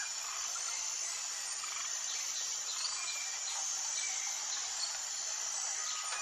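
Tropical forest ambience: a steady high-pitched insect chorus with scattered short bird chirps and brief whistled notes over it.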